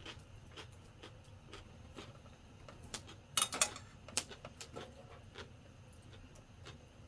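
Wood campfire crackling: scattered small pops, with a short burst of louder cracks about three and a half seconds in.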